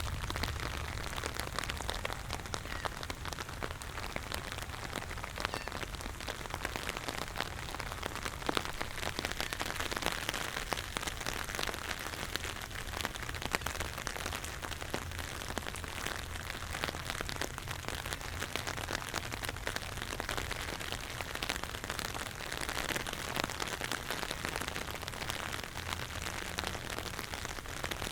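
Steady rain falling on hard surfaces, with many separate drop hits.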